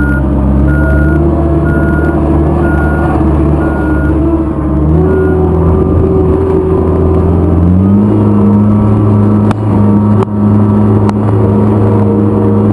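Heavy vehicle's engine running loudly, its speed raised in two steps, about five and about eight seconds in, with an on-off warning beeper sounding through the first few seconds.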